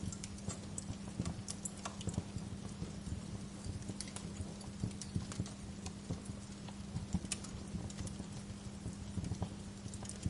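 Wood fire crackling in a fireplace: irregular pops and snaps, several a second, over a steady low hum.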